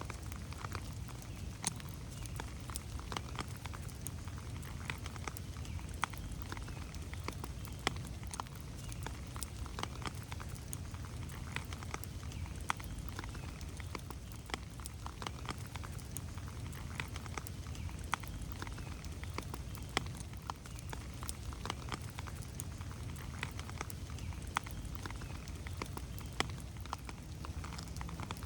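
Steady rain falling on forest foliage, with many individual drops pattering irregularly close by over a low, even rumble of the downpour.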